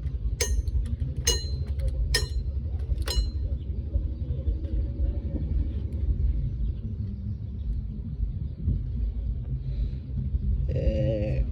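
Four evenly spaced, ringing metal-on-metal clinks, about one a second, over a steady low rumble; a voice speaks briefly near the end.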